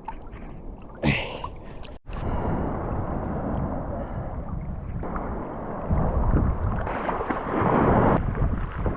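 Motorboat underway: a steady rushing of engine and water. It breaks off abruptly about two seconds in, comes back louder, and is loudest near the end.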